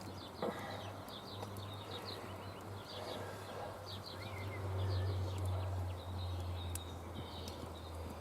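Small birds chirping in short repeated notes over a steady low hum that swells about halfway through.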